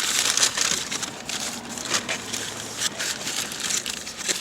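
Paper burger wrapper crinkling and rustling as a McDouble is unwrapped, with dense irregular crackles throughout.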